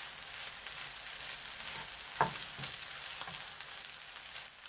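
Fried rice and scrambled egg sizzling in butter in a frying pan while a spatula stirs and turns it. Irregular scrapes and light knocks of the spatula against the pan come through the steady sizzle, the loudest about two seconds in.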